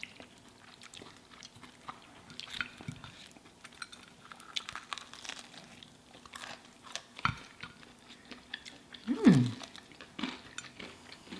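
Close-miked chewing and crunching of crispy fried food, with many small crackles and clicks. About nine seconds in, a short hummed vocal sound with falling pitch, the loudest moment.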